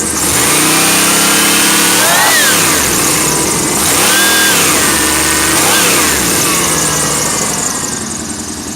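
1991 Chevy Blazer's 350 TBI small-block V8 being revved by hand: a rev about 2 s in, a longer one held a little past 4 s, and a quick blip near 6 s, each falling back to idle.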